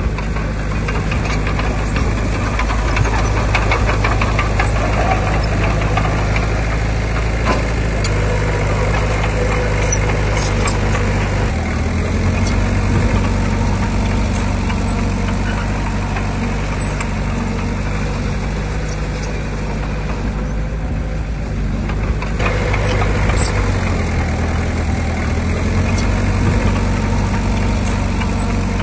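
Heavy diesel earthmoving machine engine running under varying load, its note shifting about a third of the way in and easing briefly before picking up again, with scattered metallic clanks and rattles.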